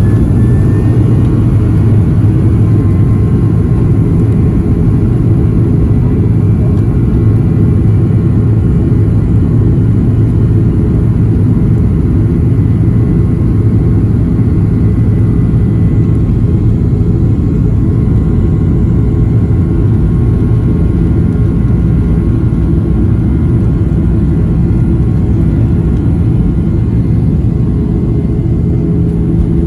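Boeing 737-700's CFM56-7B jet engines heard from inside the cabin at high thrust during takeoff: a loud, steady deep rumble with faint high engine whines above it.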